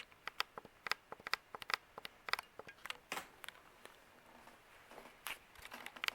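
A run of irregular light clicks and taps, a few with a faint ring to them.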